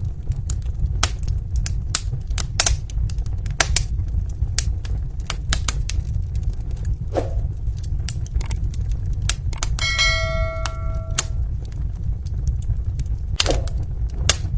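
Wood fire in a fireplace crackling: irregular sharp pops and snaps over a steady low rumble, with two louder pops. About ten seconds in, a brief ringing tone sounds for about a second.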